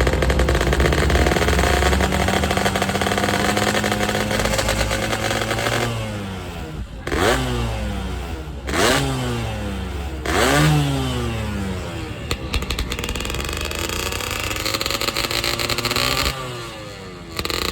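Yamaha F1Z-R two-stroke motorcycle engine running and blipped hard three times in quick succession about halfway through, each rev rising sharply and falling back. The engine is being revved to blow carbon deposits out of the exhaust.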